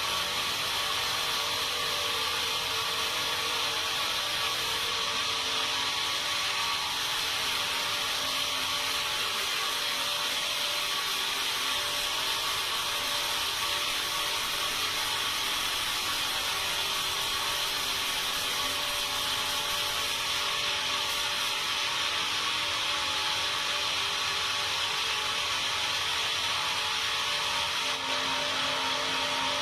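Sawmill saw running steadily without a break: a continuous hiss with a few steady humming tones.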